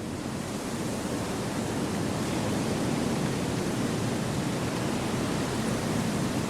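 Wind blowing through forest trees: a steady rushing that grows a little louder over the first two seconds.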